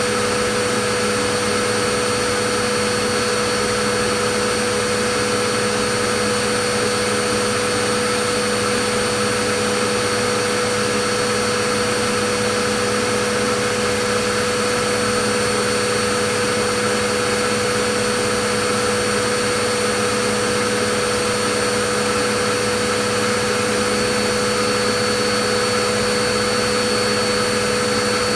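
Vacuum cleaner motor running steadily, a constant whooshing hiss with a fixed hum and a high whine that never changes.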